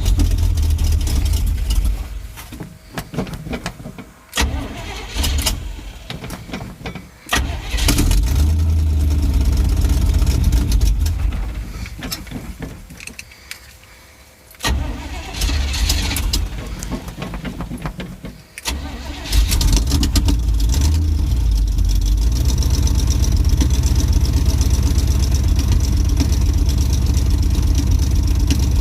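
Carbureted Chevy truck engine with Vortec heads and a freshly fitted, untuned Holley carburetor, cold-started without the choke: it catches, stumbles and nearly dies more than once over the first 19 seconds, then settles into a steady idle.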